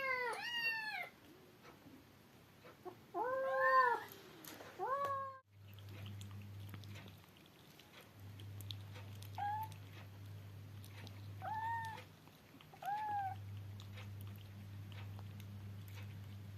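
Kittens meowing: a quick run of loud, high meows at the start, more meows a few seconds in, then a few softer single meows every second or two over a steady low hum.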